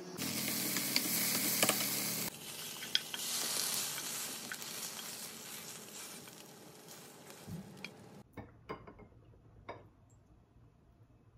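Squid with onion and green onion stir-frying in a hot pan: a loud sizzle with the clicks and scrapes of a utensil stirring, easing after about two seconds and fading out over the next several. Near the end, a few light clicks.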